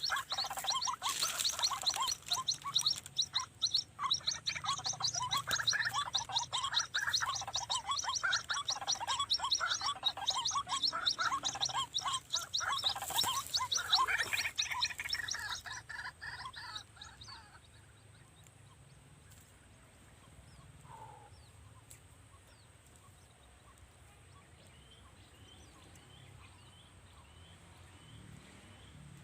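White-breasted waterhen calling: a loud, fast, repeated croaking chorus that fades out about halfway through, leaving faint high chirps over a quiet outdoor background.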